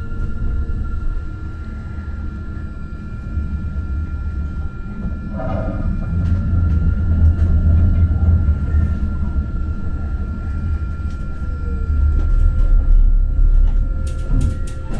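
Muni Metro light-rail car running along the track, heard from inside: a low rumble that swells twice, with a steady high whine over it.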